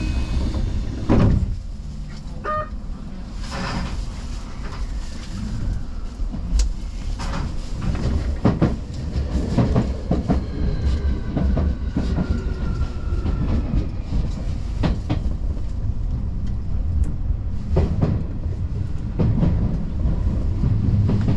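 Keio Inokashira Line electric train running, with a steady low rumble and irregular wheel knocks and clatter over rail joints and points. A faint motor whine is heard in the middle.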